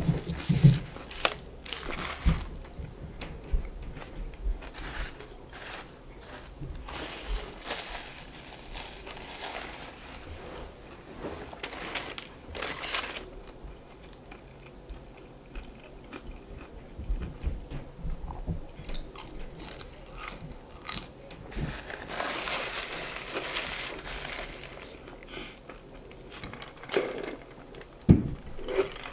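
Close-up eating sounds of a crispy fried chicken sandwich: a bite through the breading at the start, then repeated crunching and chewing with short pauses.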